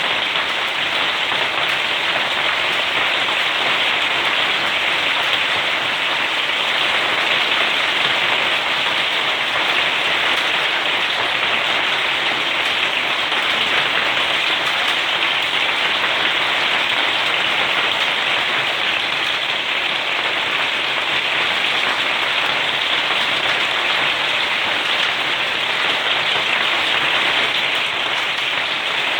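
Hailstorm: hailstones and rain pelting down in a steady, dense patter with no letup.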